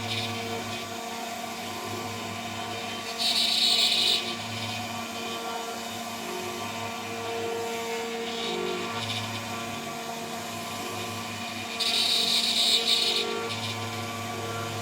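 CNC router spindle running steadily at high speed with a 3 mm three-flute end mill. Twice, about three seconds in and again near the end, the cut grows louder and harsher for a second or so as the cutter takes a heavier bite. Under it the axis motors hum, coming and going as the machine moves.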